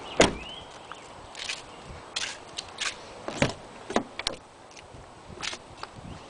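A run of irregular sharp clicks and knocks, about a dozen, mixed with a few short scrapes, the loudest just after the start.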